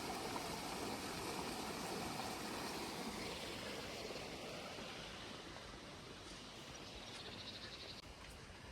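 Steady road and engine noise of a van being driven, slowly fading.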